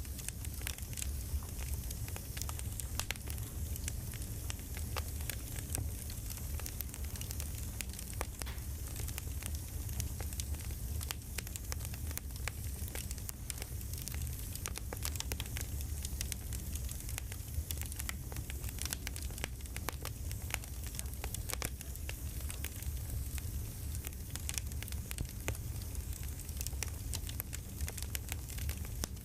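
Campfire crackling: dense, irregular small pops and snaps of burning wood over a steady low rumble.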